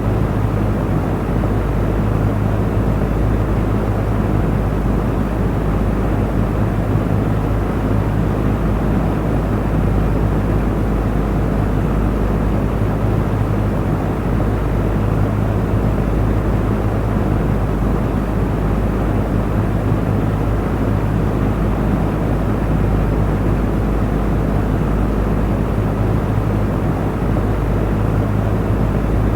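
Electric fan running steadily: an even rush of moving air with a constant low motor hum beneath it.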